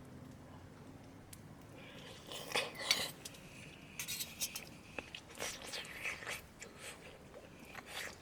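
Utensils clinking and knocking against cookware: a run of short, light clicks starting about two and a half seconds in.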